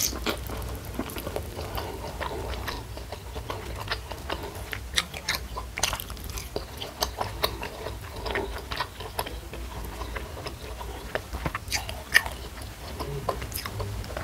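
Close-miked chewing and biting of a mouthful of food by a person eating by hand, with many irregular sharp mouth clicks over a low steady hum.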